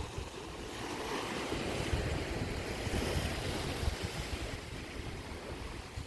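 Sea waves washing onto a rocky shore, the surge swelling about a second in and easing off near the end, with wind buffeting the microphone.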